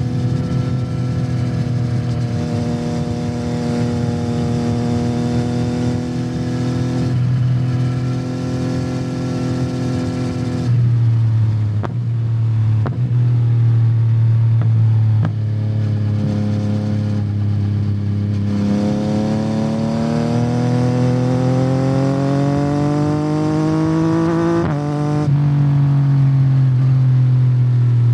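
A 2021 Yamaha MT-09's 890 cc inline-three engine running through a Yoshimura R77 carbon exhaust while riding. In the first half the engine note steps up and down through several gear changes. Then it rises steadily under acceleration for about six seconds, and drops with an upshift near the end.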